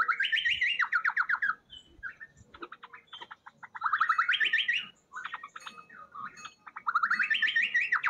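A songbird gives three identical calls about three seconds apart, each a fast trill that rises and then falls in pitch, with faint chirps from other birds in between.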